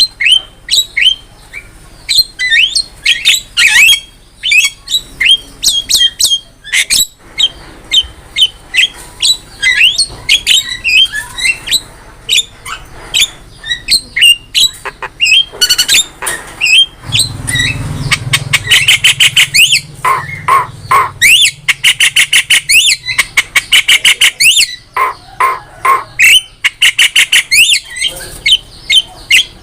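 Javan myna calling loudly and continuously: a rapid run of sharp, down-slurred whistles, harsh squawks and fast chattering note trains. A brief low hum sounds underneath about halfway through.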